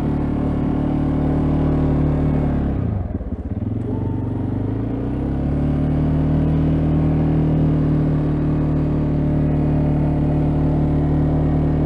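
CFMoto ATV engine running steadily while plowing snow; about three seconds in the revs drop sharply, then climb back and hold steady again.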